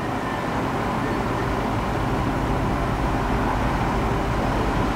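EF65 electric locomotive hauling a train of coaches on the approach, a low rumble that grows slowly louder.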